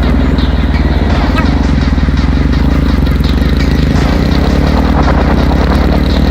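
Royal Enfield Bullet's single-cylinder engine running steadily on the move, a fast, even low thump under rough noise.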